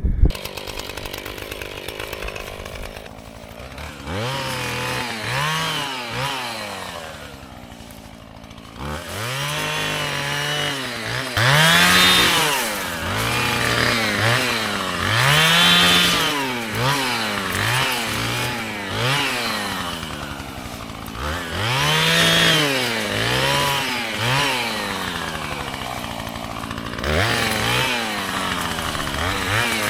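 Small two-stroke chainsaw revving up and dropping back again and again, about a dozen times, as it cuts through brush. It starts about four seconds in after a quieter opening.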